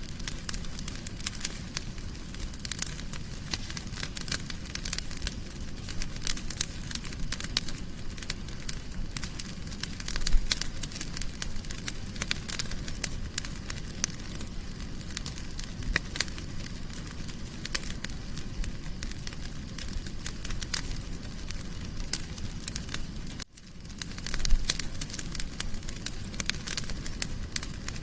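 Wood fire crackling in a fireplace: dense, irregular pops and snaps over the steady low rush of the flames, with a few louder pops. The sound drops out for an instant near the end.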